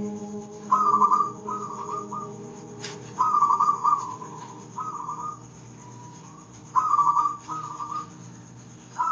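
Zebra dove (perkutut) cooing in short bursts of rapid, trilling notes, one phrase every second or two, over soft, sustained instrumental tones.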